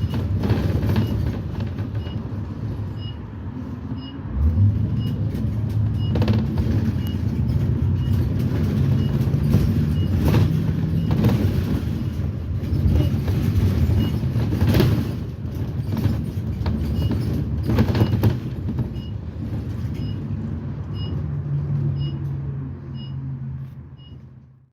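2010 Blue Bird Vision school bus with a propane GM Vortec V8 heard on board while moving: the engine runs steadily, its pitch rising about four seconds in as it pulls harder, with body rattles and knocks throughout. A faint regular high tick repeats about every three-quarters of a second. The sound fades out at the end.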